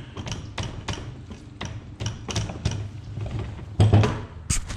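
Socket ratchet clicking in short, irregular strokes while a bolt is worked loose on a Yamaha YZ85 engine, with a heavier metal knock near the end.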